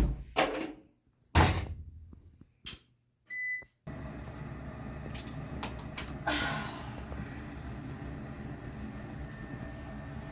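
A household appliance being shut and started: a few knocks, like a door or lid closing, then a single electronic beep about three and a half seconds in, after which the machine runs with a steady hum.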